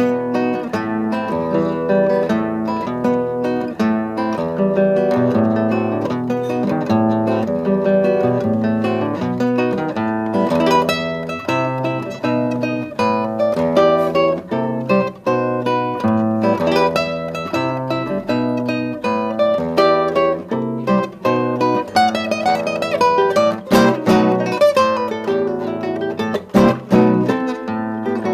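Acoustic guitar music: quick plucked and strummed notes throughout. A few sharp percussive hits come near the end.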